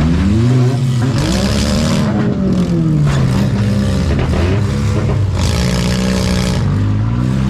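Four-cylinder demolition derby car engines revving hard, pitch climbing and dropping again several times as the cars accelerate and back off.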